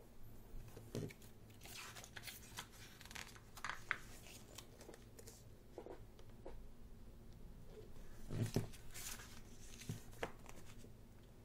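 Pages of a thick photobook being turned by hand: paper swishing and rustling in several separate turns, with a few soft knocks as the pages are handled.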